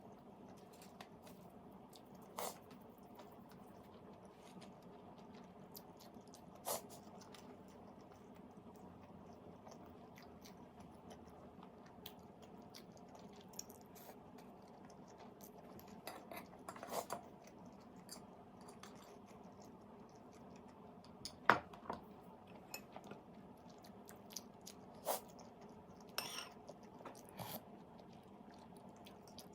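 Faint eating sounds: a person chewing, with scattered clicks and taps of utensils against a dish, over a steady low background hum.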